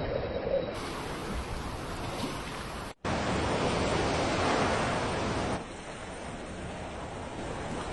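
Steady rushing noise of moving water, interrupted by edits: it cuts out for an instant about three seconds in, and drops quieter after another cut a little past halfway.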